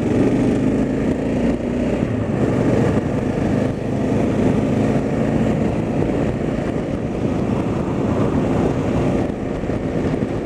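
Car engine and road noise heard from inside a moving car: a steady low drone with an engine hum.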